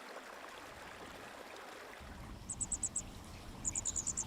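Water trickling softly for about two seconds. It then gives way to a low outdoor rumble with an insect, such as a cricket, chirping in short rapid trains of very high pulses.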